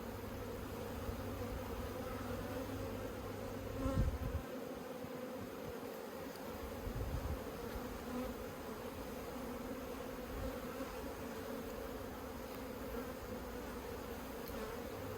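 Honeybees buzzing steadily around an open top bar hive during an inspection, with a brief knock about four seconds in.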